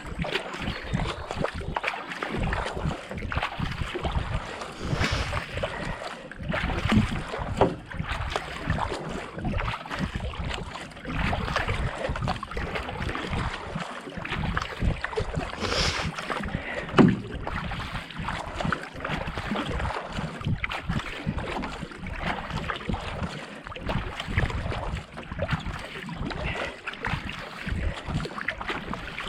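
Kayak paddle strokes: blades entering and leaving the water with splashing and dripping, and wind buffeting the action-camera microphone.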